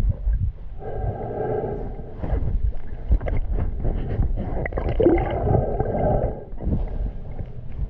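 Muffled underwater noise from a camera below the surface: low rumbling and gurgling, with two longer swells of sound, about a second in and again around five seconds in.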